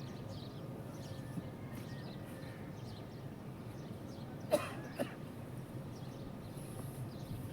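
Farmyard background with a steady low rumble and faint livestock calls, broken by two sharp knocks about half a second apart midway through.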